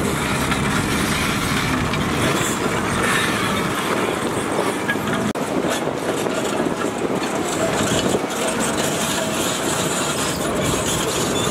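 Heavy construction machinery running loud and steady, a dense mechanical rumble and clatter. There is a brief dropout about five seconds in.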